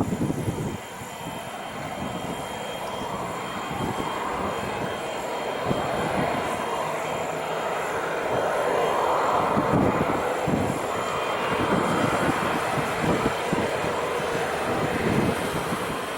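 Jet airliner engines running: a broad rushing noise that builds to its loudest about ten seconds in, with a thin steady high whine above it. Low gusts of wind buffet the microphone.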